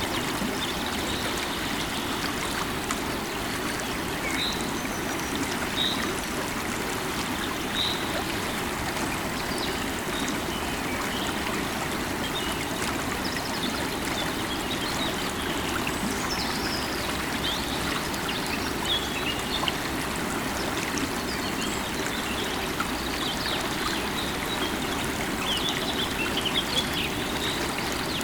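River water running steadily, with small birds chirping briefly now and then in short, high calls.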